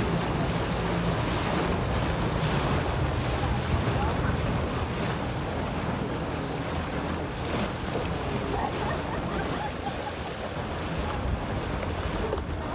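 Wind buffeting the microphone over the wash of sea water around a yacht. A low steady hum underneath fades after the first couple of seconds.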